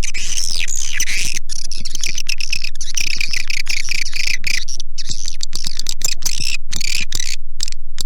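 Swiftlet calls from a lure recording: a dense, continuous chatter of twittering chirps and rapid clicks. Arched notes come in the first second, and quick clicking chirps follow.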